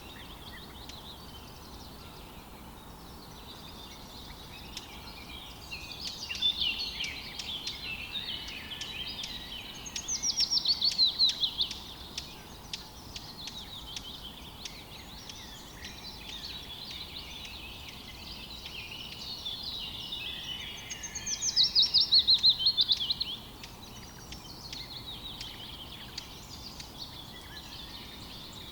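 Birds chirping and twittering continuously over a faint background hiss. Twice a louder, fast trill of quickly repeated falling notes lasts about two seconds.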